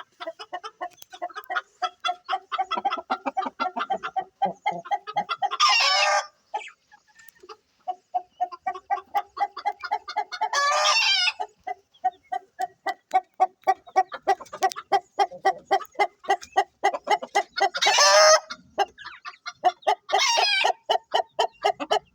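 Birds calling: a fast, even run of short repeated notes, broken four times by a louder, drawn-out call lasting about a second.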